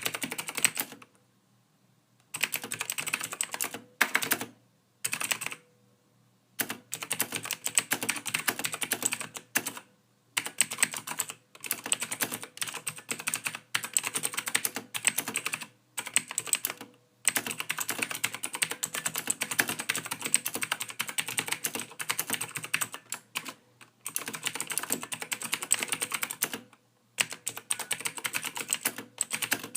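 Computer keyboard typing: fast, continuous runs of key clicks, broken by several short pauses.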